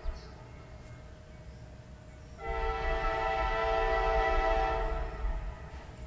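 Diesel locomotive air horn: a steady multi-note chord sounding one blast of about three seconds, starting about two and a half seconds in, over the low rumble of the train.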